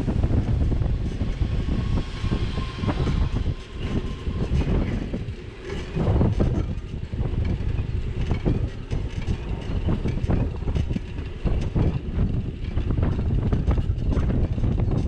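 Wind noise on a bicycle-mounted action camera while cycling, with the bike rattling and knocking irregularly over bumps in the road.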